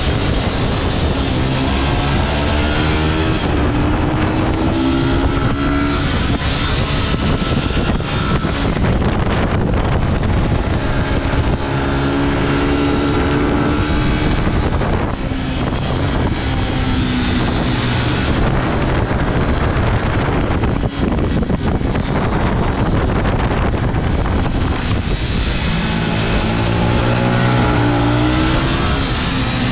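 Yamaha YZF-R125 single-cylinder four-stroke motorcycle engines at track speed, their pitch climbing and dropping again and again as the bikes accelerate, shift and roll off through the corners, over constant wind rush on the microphone.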